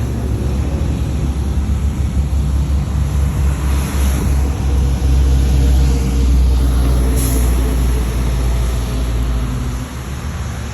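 Car on the move in a storm: a steady heavy low rumble of engine, road and wind noise that eases a little near the end.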